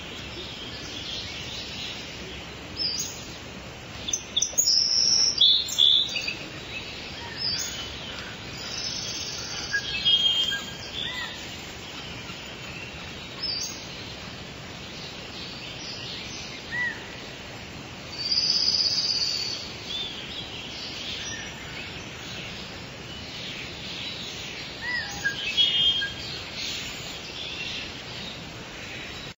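Wild songbirds calling: a scatter of short, high chirps and calls, with louder calls about five seconds in, around ten seconds, around nineteen seconds and near twenty-six seconds, over a steady outdoor hiss.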